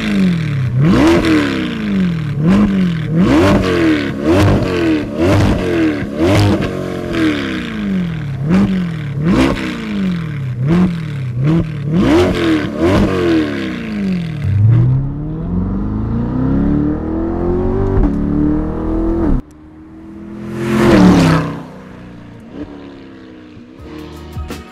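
Corvette C8 Z51's mid-mounted 6.2-litre V8 breathing through a Fi Exhaust with cat pipes and a valved rear muffler. It is revved in quick blips, about one a second, then held in one longer, slower rev that cuts off abruptly. One louder surge of the engine rises and falls in pitch, then it settles to a lower, quieter running sound.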